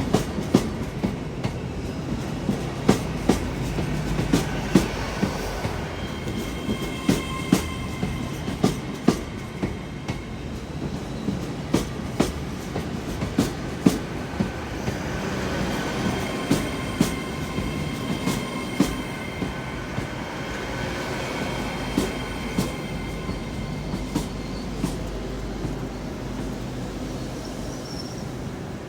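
GWR Class 802 IET train moving slowly through the station, its wheels clicking over rail joints and points in an uneven run of sharp clacks over a steady low rumble. A faint high wheel squeal comes in twice.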